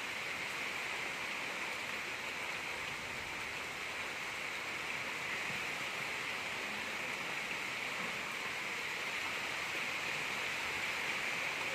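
Gentle rain falling steadily: an even hiss of many small drops, with no thunder.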